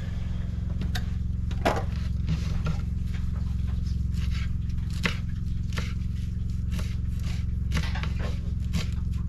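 Knife chopping Italian parsley on a cutting board: short, irregular taps, about one or two a second, over a steady low hum.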